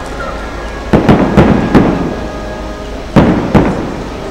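Aerial firework shells bursting in a series of booms, each trailing off as it echoes: three in quick succession about a second in, then two more a little past three seconds.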